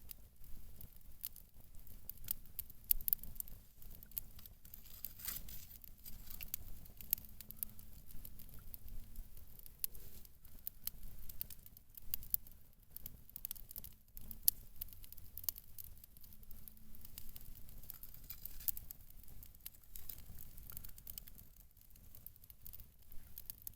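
Wood campfire crackling and popping, with a continuous scatter of irregular sharp snaps over a low rumble.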